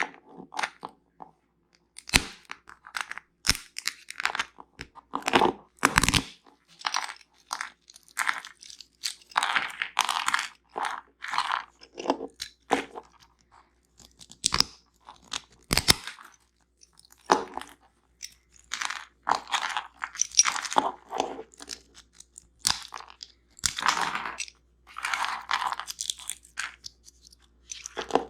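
Close-miked mouth crunching and chewing of hard, crunchy nuts and seeds: a run of irregular sharp crunches with short pauses between bites.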